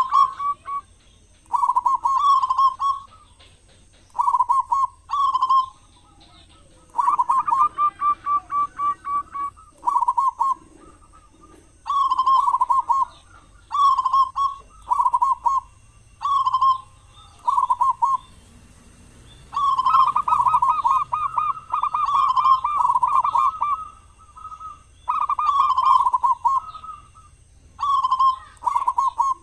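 Zebra dove (perkutut) cooing: short, rapid trilled phrases repeated every second or two, with a longer unbroken run about twenty seconds in.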